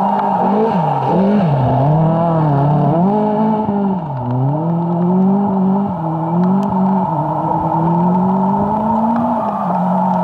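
Rally car engine at full effort on a wet gravel stage, its revs climbing and dropping back several times through gear changes and lifts, then holding a steadier note near the end as the car passes and pulls away.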